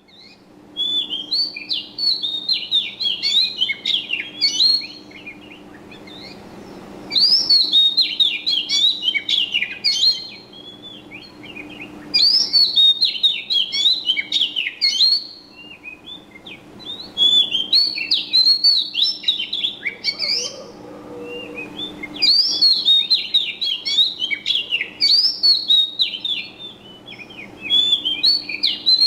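Bird chirping in bouts of quick, high twittering notes, each bout lasting about three seconds, six bouts with short pauses between. A faint steady low hum runs underneath.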